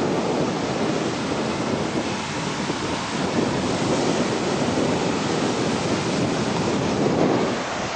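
Ocean surf washing onto a beach, with wind buffeting the microphone: a steady rushing noise.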